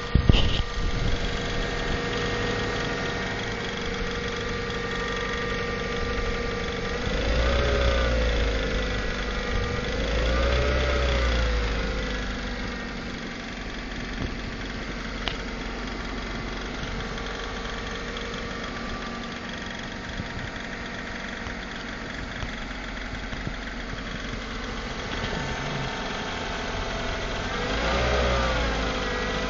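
Mazda ZL-DE four-cylinder engine idling with a knock, blipped up and back down twice about a third of the way in and once more near the end. The knock comes from a loosening flywheel mounting bolt rubbing against the housing.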